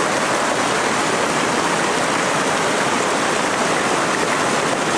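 A steady, even rushing noise with no breaks, like running water.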